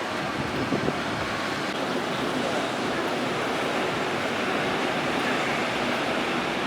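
Rough sea waves and wind making a steady, continuous rushing noise.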